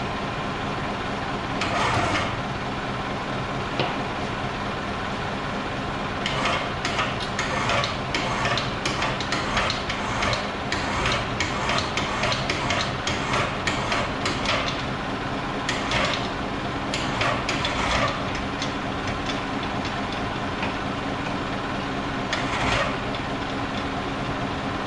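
An engine idling steadily, with bursts of sharp metallic clanks and knocks, thickest between about six and eighteen seconds in.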